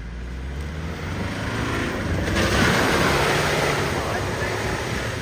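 Four-wheel-drive engine running under load, with a loud rushing noise that swells sharply about two seconds in, as of a vehicle working to get out of a mud bog.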